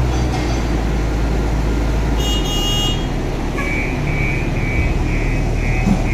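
Telehandler diesel engine running steadily at a low drone, with a brief high tone about two seconds in, then a warning alarm beeping about twice a second through the rest.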